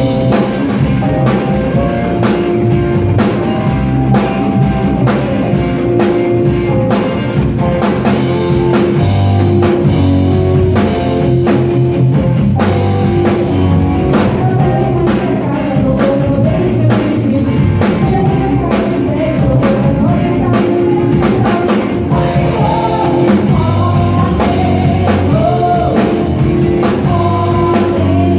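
Live rock band playing: drum kit keeping a steady beat under bass, guitar and a singing voice.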